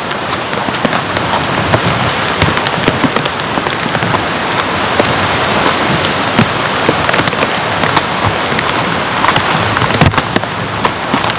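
Heavy rain: a dense, steady hiss with many close, sharp drop hits scattered all through it.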